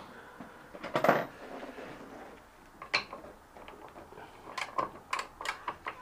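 Metal hand tools clinking and knocking as they are handled: a louder clank about a second in, another near three seconds, then a quick run of light clicks near the end.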